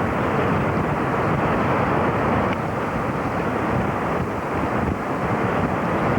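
Steady, dull rushing noise of wind and a moving vehicle.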